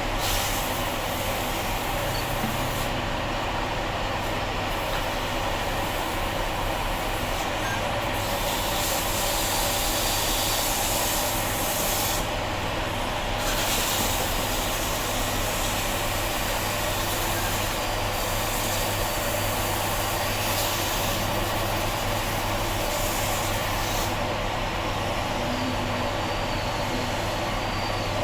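Steady mechanical noise: a constant low hum with an even hiss over it, like a motor or machine running without a break.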